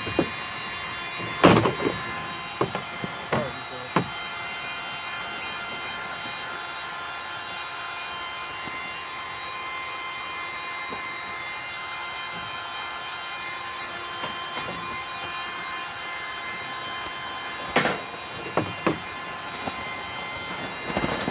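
A heat gun running steadily with a fan whine, used to soften the plastic barrel seam of a canoe, broken by a few sharp knocks of plastic being handled, a cluster near the start and two more near the end.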